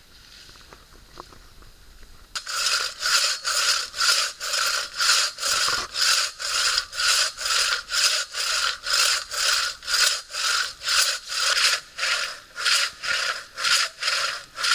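Hand saw cutting through a log with steady push-pull strokes, about two a second, starting a couple of seconds in.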